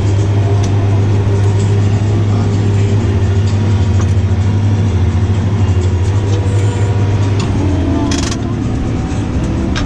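Tractor engine running steadily during mowing, a constant low drone. A brief hiss cuts in about eight seconds in.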